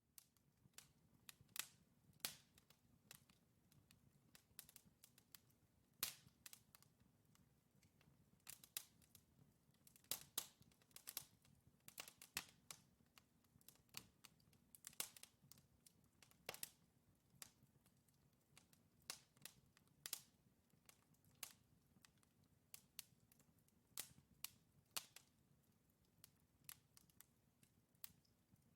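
Wood fire crackling in a fireplace: burning logs giving off frequent, irregular sharp pops and snaps over a faint low background rush.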